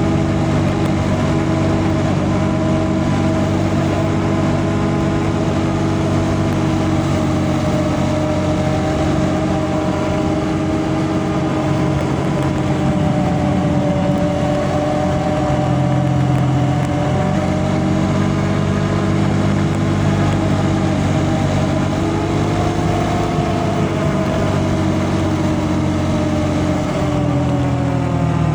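A motor vehicle's engine running steadily while driving. Its pitch rises and falls gently as the speed changes.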